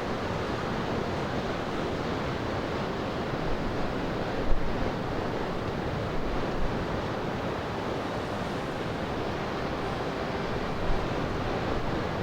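Wind buffeting the microphone over a steady wash of sea surf, with a few short louder gusts, the strongest about four seconds in.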